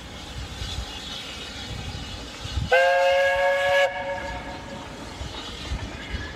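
A steam locomotive's whistle blows once for about a second, starting between two and three seconds in, over the steady running rumble of the train.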